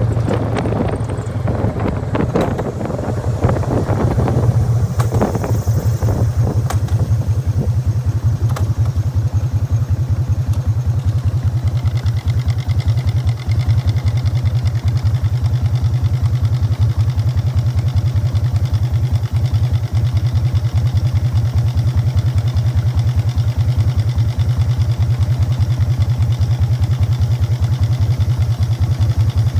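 1999 Harley-Davidson Fat Boy's Evolution V-twin through Python mufflers: wind rush over the engine for the first several seconds, then it settles into a steady, even idle for the rest, with the rattle of its open primary.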